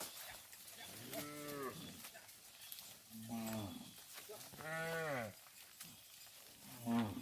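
Cattle mooing: four separate calls, each rising and then falling in pitch, the third the longest and loudest.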